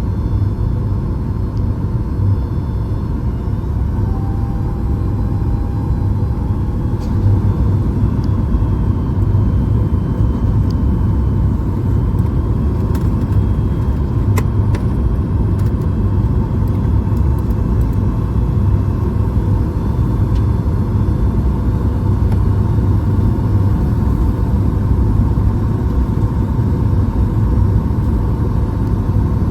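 Steady cabin noise inside a Boeing 737 MAX 8 airliner: a constant low rumble of airflow and engines with no change in level.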